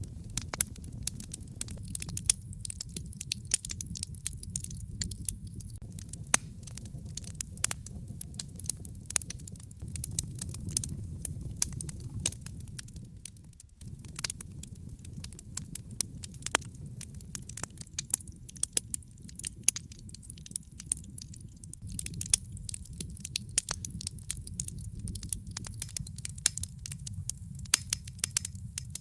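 Wood fire in a fireplace crackling, with many quick sharp pops over a steady low rumble. The sound dips briefly about halfway through.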